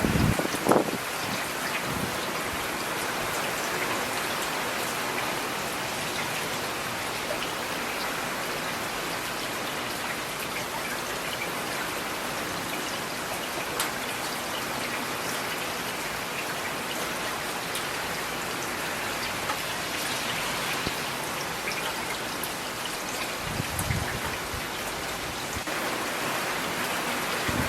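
Steady rain falling and pattering on surfaces, with a few short, low thuds standing out about a second in and again near the end.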